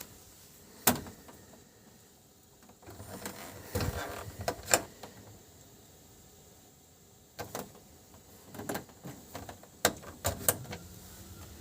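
A series of sharp clicks and knocks, with a stretch of scraping, rattling noise about three to five seconds in.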